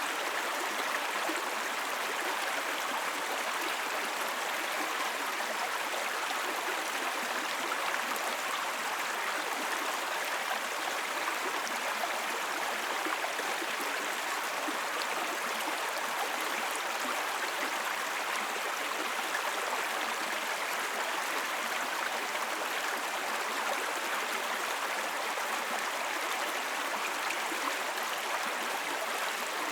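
Small brook babbling over stones: steady running-water noise with no pauses or changes.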